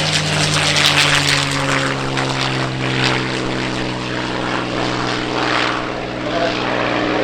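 Propeller-driven WW2 warbird's piston engine running loudly as the plane flies by, a steady engine drone with a rough, crackling edge, its pitch sinking a little in the first couple of seconds as it passes.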